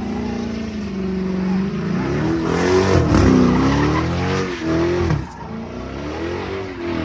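Car engine revving up and down repeatedly while its tyres spin and squeal, a burnout or donut; the noise swells loudest about three seconds in and eases just after five seconds.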